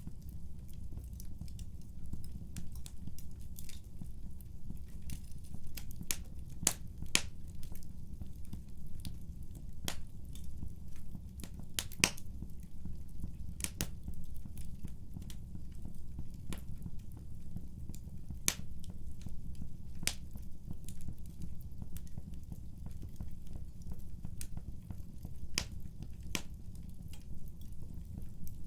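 Fireplace fire burning and crackling, with irregular sharp pops and snaps over a steady low rumble. The loudest pop comes about twelve seconds in.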